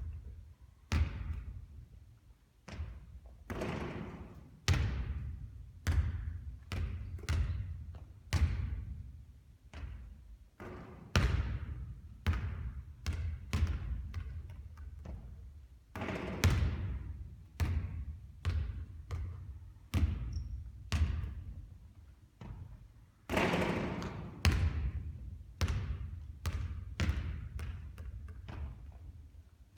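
A basketball bouncing on a court again and again: a run of hard hits, each with a ringing, echoing tail, about one or two a second, with a few louder, longer hits among them.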